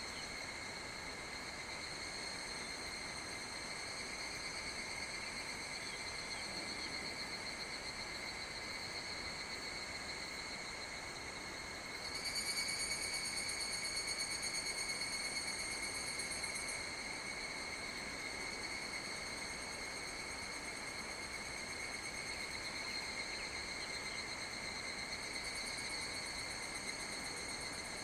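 Insects singing a steady, high, buzzing trill. About twelve seconds in, a second, louder trill joins for about five seconds and then drops away.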